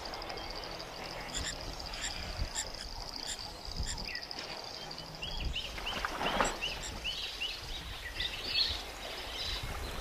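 Natural wildlife ambience: a steady high-pitched trill, joined from about halfway by a run of short repeated bird chirps, with a brief rush of noise about six seconds in.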